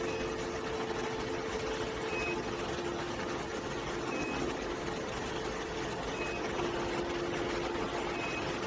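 Steady machinery running, a hum with a couple of held tones, and a short high beep about every two seconds.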